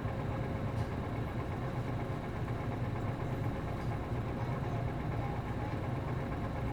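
Diesel bus's MD92TJ engine running at a steady, unchanging low rumble with no rise or fall in pitch, heard from inside the passenger cabin.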